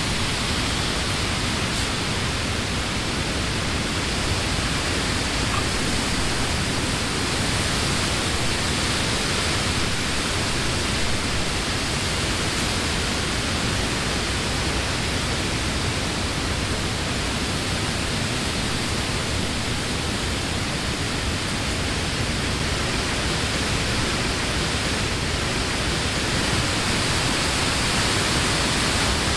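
Steady wind blowing through the leaves of trees: a continuous rushing whoosh with only slight swells.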